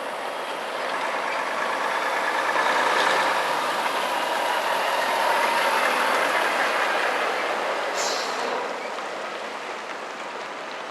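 A road vehicle or train passing, its noise swelling over the first few seconds and fading away after about eight seconds.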